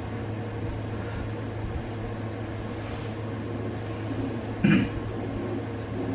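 A steady low hum, with a French Bulldog puppy giving one short, sharp yelp about three-quarters of the way through, a sign of it getting worked up in play.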